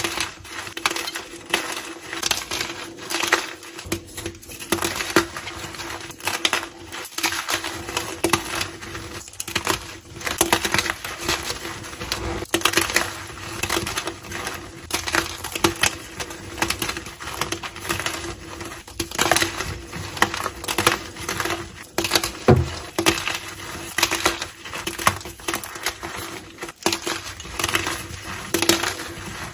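Gym chalk blocks being crushed and crumbled: a dense, continuous run of crisp crunching and crackling.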